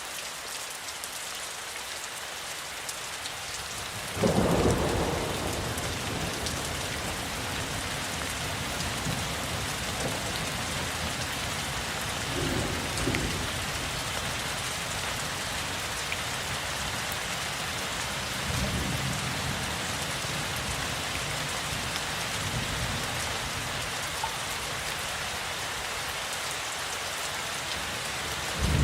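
Steady rain falling, with a thunderclap breaking in about four seconds in. Thunder keeps rumbling low under the rain after that and swells again a couple of times.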